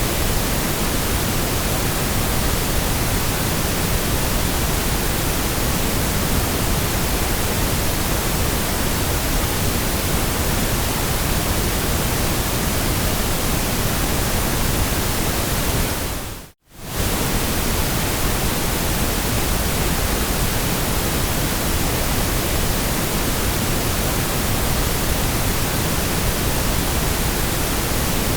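Steady white noise, an even hiss across all pitches, that briefly fades out to near silence and back in about two-thirds of the way through.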